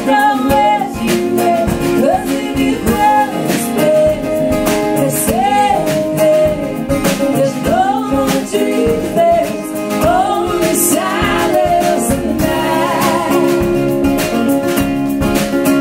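Live acoustic music: a voice singing a melody with wavering held notes over strummed acoustic guitar.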